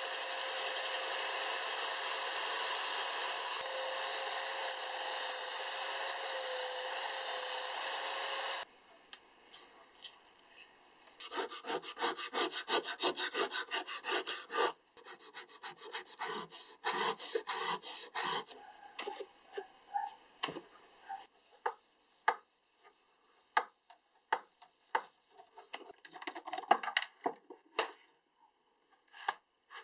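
Bench belt sander running as a steel axe blade is held against the belt, a steady grinding hiss that cuts off suddenly about nine seconds in. Then a cotton pad rubbing the bare steel axe head in quick back-and-forth strokes, thinning out to scattered light rubs and taps near the end.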